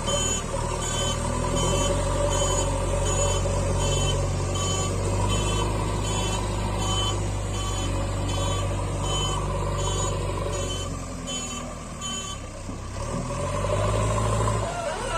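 A heavy diesel engine running steadily under a reversing alarm beeping about one and a half times a second; the beeping stops about twelve seconds in. The engine dips, then rises again near the end.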